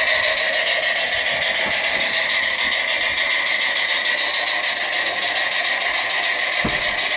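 Small model engine driving a Baker fan load: a steady whirring hiss with a fast, even pulse, and one short low knock near the end.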